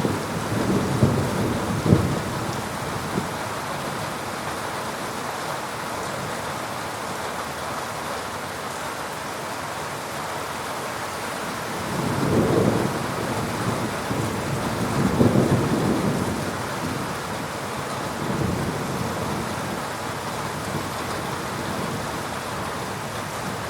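Heavy rain falling steadily during a thunderstorm, with several low rolls of thunder. The loudest two come about halfway through, with a weaker roll near the start and another a little after the middle.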